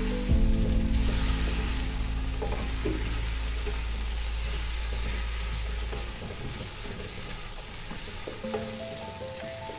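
Food frying and sizzling in a pan, with stirring, over background music of held notes.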